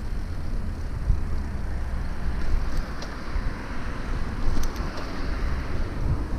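Wind buffeting the microphone of a moving bicycle over city street noise, with a car passing in the middle, rising and fading over a few seconds.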